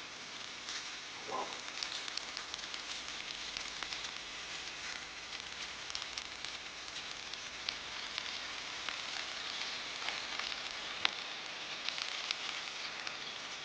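Open campfire crackling: a steady sizzling hiss scattered with sharp pops and ticks, one louder pop about eleven seconds in.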